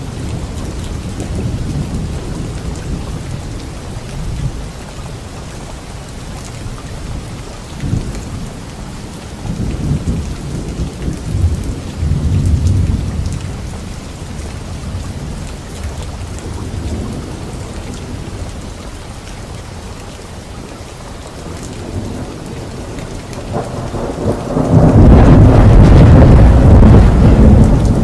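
Steady rain falling, with thunder rumbling low about a third of the way in and a loud, long roll of thunder building up near the end.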